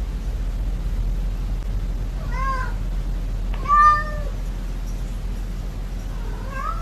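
A cat meowing: a short meow about two and a half seconds in, a louder one about a second later, and a third starting near the end, over a steady low hum.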